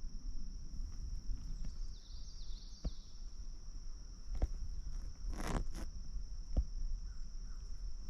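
Footsteps and rustling through dry brush and briars, with scattered snaps of twigs and one louder crackle of vegetation about five and a half seconds in. A steady high-pitched insect trill runs underneath.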